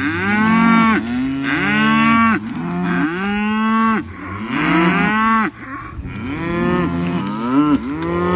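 Several Highland cattle mooing loudly over one another, one call after another. Each call lasts about a second and rises then falls in pitch.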